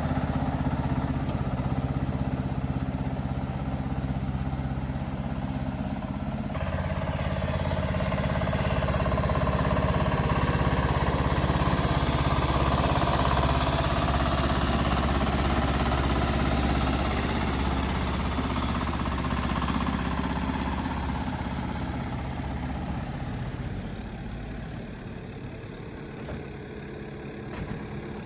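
Diesel engine of heavy earthmoving machinery running steadily. The sound changes abruptly about six seconds in, swells a little in the middle and fades toward the end.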